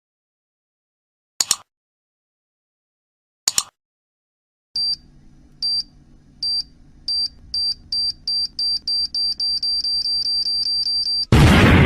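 Two sharp clicks, then a time-bomb countdown sound effect: a high electronic beep repeating faster and faster, to about five a second, over a low hum, ending near the end in a loud explosion that dies away slowly.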